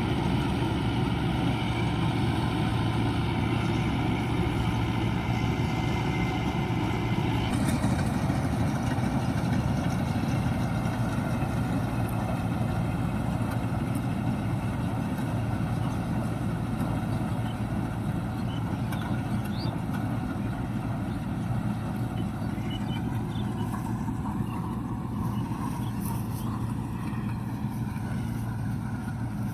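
Diesel engine of a tractor-mounted combine harvester running steadily under load. There is a slight shift in its tone about seven seconds in.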